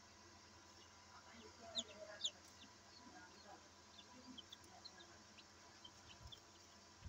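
Newly hatched Australorp chicks peeping faintly in the incubator, a scatter of short high cheeps with two louder ones about two seconds in.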